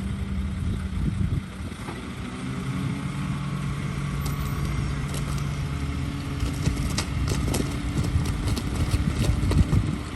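Diesel engine of heavy earthmoving machinery running steadily, its pitch shifting a little a few seconds in. In the second half come irregular metallic knocks and clatter.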